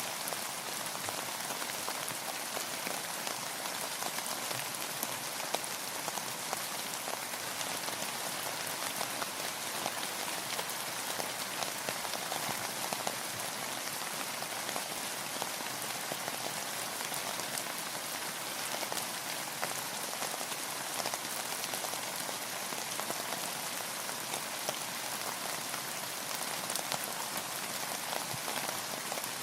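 Steady rain falling, a dense even patter of many small drop impacts with fine ticks scattered through it.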